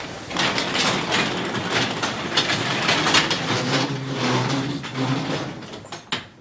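Overhead garage door rolling open, a rattling rumble for about six seconds with a steady low hum joining in the second half, stopping with a clunk near the end.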